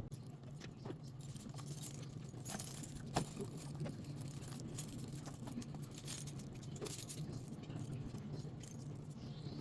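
Light metallic clinking and jangling of small hardware being handled, scattered irregular clicks over a steady low hum.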